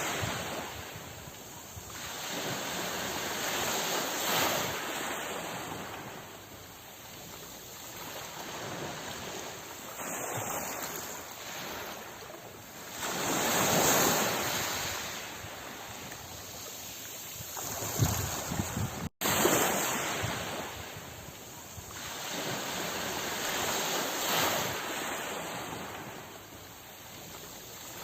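Sea waves surging and washing in slow swells, each rising and falling over several seconds, the strongest about halfway through. The sound cuts out for an instant about two-thirds of the way through.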